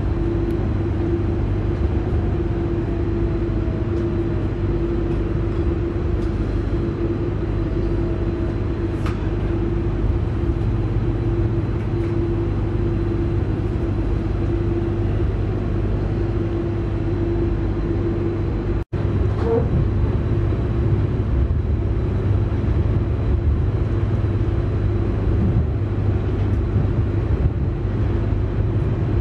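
Interior noise of an electric commuter train under way: a steady low rumble with a steady hum that fades out partway through. The sound cuts out for an instant about two-thirds of the way in.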